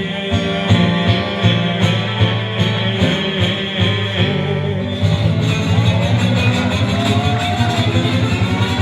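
Acoustic blues guitar playing an instrumental passage with a steady rhythmic bass pulse; the playing gets busier about five seconds in.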